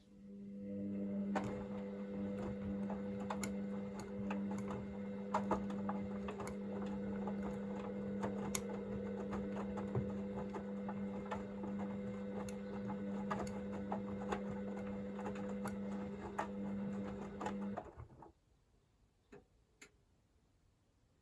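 Hoover VisionDynamic washing machine tumbling its drum during the wash's heating-to-40 °C phase: a steady motor hum with scattered clicks and knocks from the load turning. It starts right away and stops about 18 seconds in, as the drum pauses.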